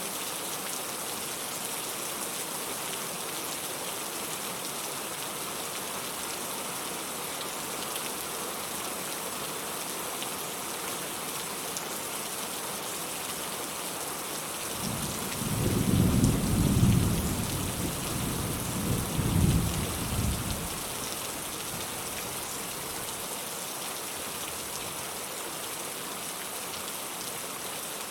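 Steady rain falling, with a roll of thunder about halfway through that swells twice and fades over some six seconds.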